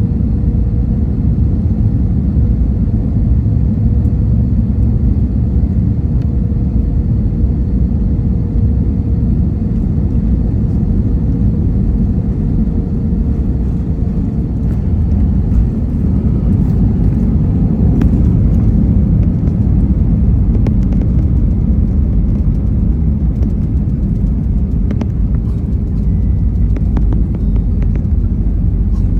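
Airliner cabin noise: a steady low rumble from the aircraft, with a faint steady tone that fades out about halfway through and scattered small clicks and rattles in the second half.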